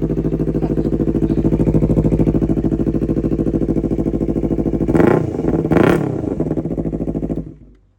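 Yamaha MT-03 motorcycle engine idling through an SC Project full-system exhaust, its catalytic converter section replaced by a link pipe, blipped twice in quick succession about five seconds in. The sound stops shortly before the end.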